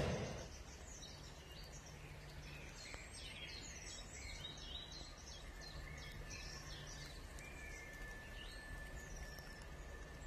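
Several small birds singing and chirping against faint outdoor ambience with a low hum. The tail of a loud passing sound dies away in the first half-second, and a steady high tone sets in about three-quarters of the way through.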